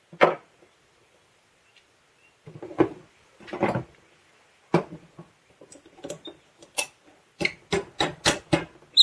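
Plastic parts of a 3M H180 tape gun clicking and knocking as they are handled and fitted together: a few scattered clicks, then a quick run of about eight near the end.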